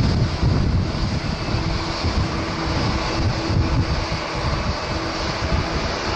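Jet airliner engine noise at an airport, a steady wide rush, with strong gusts of wind buffeting the microphone in an uneven low rumble.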